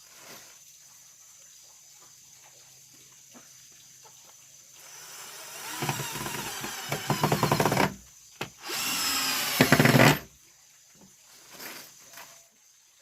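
A power tool run in two bursts. The first builds up from about five seconds in and ends in a fast pulsing rattle. The second, shorter and louder, cuts off suddenly about ten seconds in.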